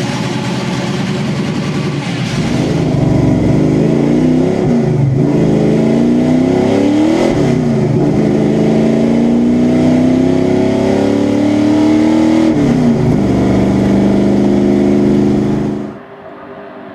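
Stock car's V8 engine accelerating hard, its pitch climbing in three sweeps, each ending in a sudden drop at a gear change, the last climb the longest, then holding steady at speed. The sound falls away suddenly near the end.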